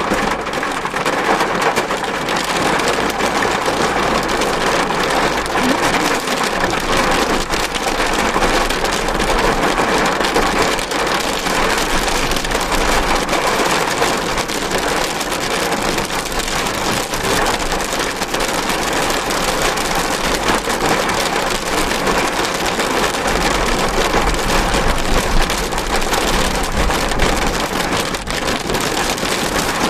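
Heavy rain pelting the roof and windscreen of a moving car, a steady dense patter, with a low rumble underneath that swells and eases.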